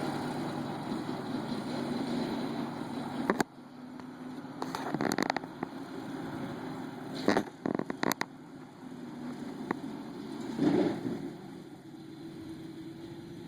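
1948 Willys pickup's engine running steadily during grass cutting. About three seconds in the sound drops off abruptly, and it carries on quieter, with a few sharp clicks midway and a short louder rush near the end.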